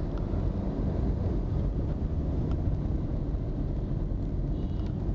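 Steady low rumble of road traffic and vehicle engines, with no clear events standing out.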